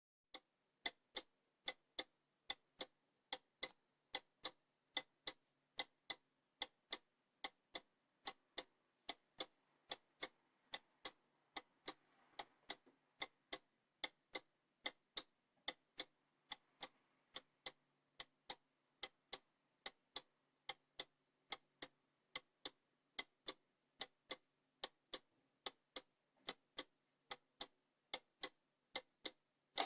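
Cuckoo clock's mechanical movement ticking steadily, an even tick-tock of sharp clicks.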